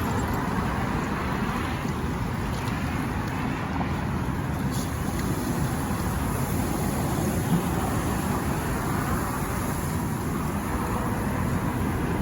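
Steady rumble of vehicle and road traffic noise with no distinct events.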